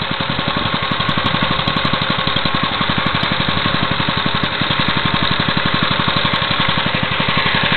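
Baja 196cc mini bike's single-cylinder four-stroke engine running steadily at idle, a fast, even chain of firing pulses.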